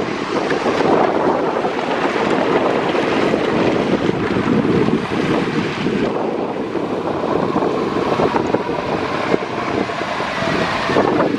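Steady motorway road noise: the rush of tyres and wind from vehicles travelling at speed, with no single sound standing out.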